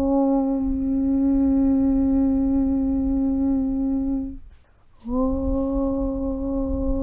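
Low, steady chanted "Aum" drone, one held pitch with a low rumble underneath. The held note fades out about four seconds in, and after a half-second pause the next "Aum" begins, sliding briefly up into the same pitch.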